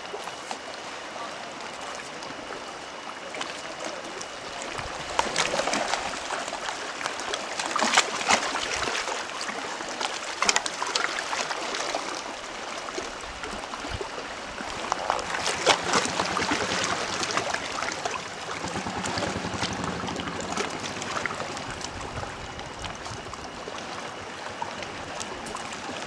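Water splashing and trickling, with louder, crackly spells of splashing about five seconds in and again around the middle.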